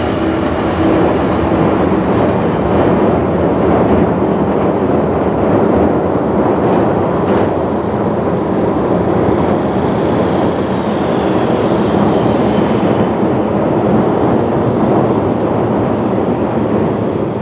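JR East 115-series six-car electric multiple unit running across a steel truss railway bridge: a loud, steady rumble of wheels on rail and bridge. A humming tone fades out about two seconds in, and faint high whines come and go around the middle.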